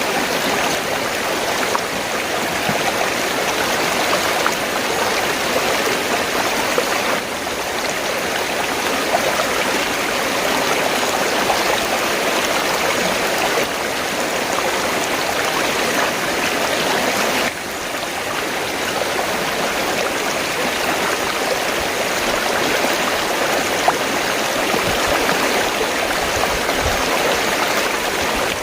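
River water flowing in a steady, continuous rush, with two brief dips in level.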